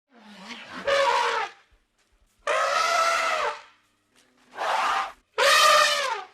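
Elephant trumpeting: four calls in a row, each about a second long with short gaps between, the last two closer together.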